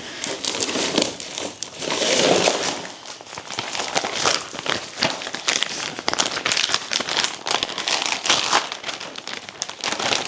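Crinkling and rustling of packaging being handled and crumpled, with many small clicks and rattles throughout.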